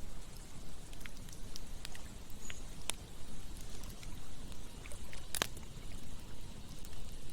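Campfire crackling with scattered sharp pops, the loudest about five and a half seconds in, over a steady rushing of running water.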